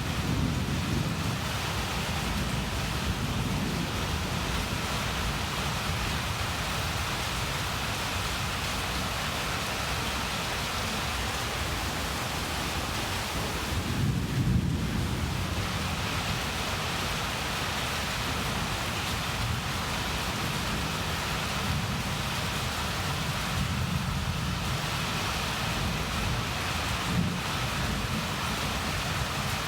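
Rain falling steadily during a thunderstorm, with low thunder rumbling underneath; a louder rumble swells about halfway through.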